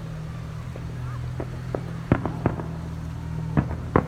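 Fireworks going off at a distance: a scattered series of sharp separate bangs, about eight in four seconds, the loudest a little after two seconds in and near the end, over a steady low hum.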